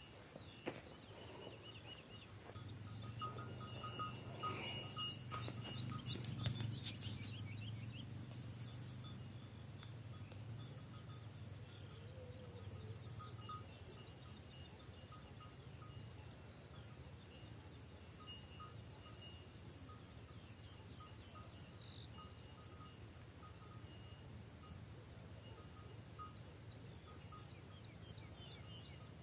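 Bells on grazing sheep clinking and ringing on and off, with a cluster of sharper clanks a few seconds in.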